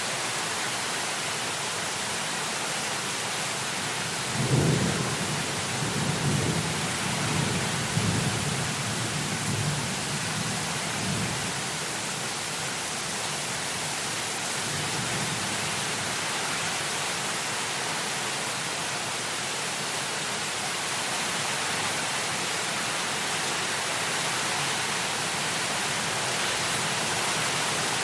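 Heavy rain hissing steadily, with a roll of thunder rumbling in about four seconds in and dying away over the next several seconds.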